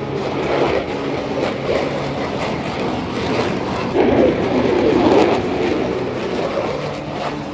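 Jet aircraft noise, a steady rushing sound that swells about four seconds in as a plane passes.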